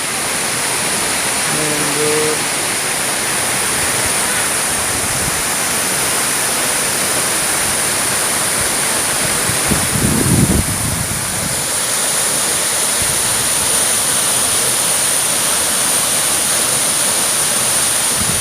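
Waterfall pouring with a steady, loud rush of water. A brief low rumble comes about ten seconds in, and a short voice is heard near the start.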